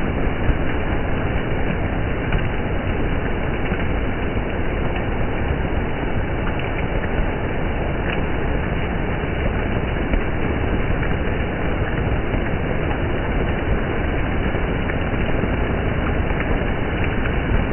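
Steady rushing and splashing of water on a wet street, with a few faint ticks.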